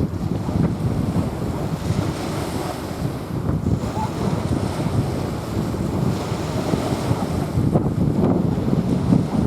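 Small sea waves washing onto a sandy beach in a steady, uneven wash, with wind buffeting the microphone.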